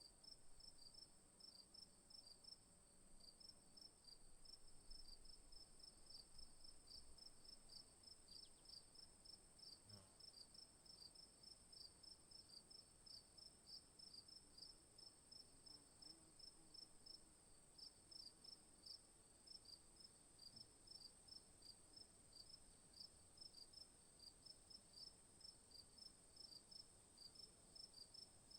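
Faint insect chorus: a steady high-pitched drone with a regular, rapid chirping of about three chirps a second that pauses briefly now and then, typical of crickets.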